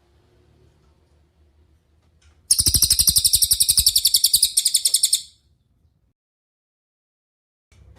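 Cililin songbird giving one fast, high-pitched trill of about ten notes a second, starting about two and a half seconds in and lasting nearly three seconds, with a brief break near its end.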